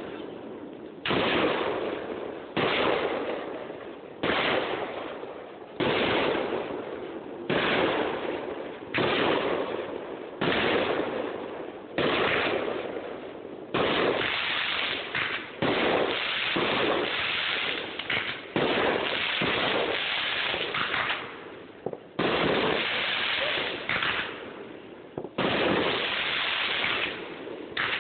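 Aerial firework shells bursting one after another. For the first half they come about one every second and a half, each bang trailing off over a second or so. About halfway through they come faster and overlap. Heard through a phone's microphone.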